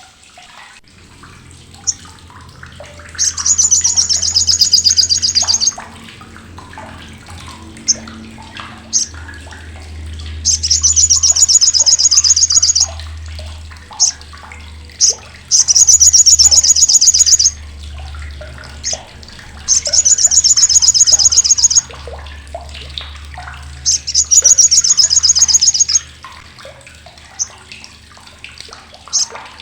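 Olive-backed sunbird (sogok ontong) giving its crecetan: loud, harsh, sharp, rapid chattering in high-pitched bouts of two to three seconds, five times, with short single chirps between the bouts.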